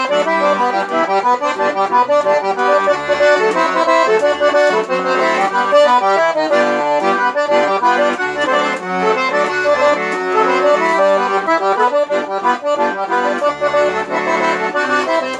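Button accordion (sanfona) playing an instrumental tune: a quick-moving melody over short low bass notes, with no singing.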